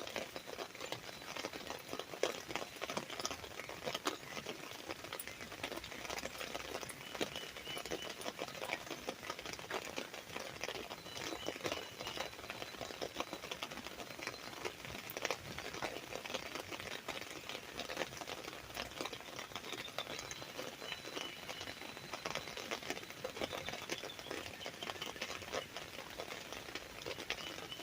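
Rain falling on an umbrella: a dense, steady patter of drops striking the canopy.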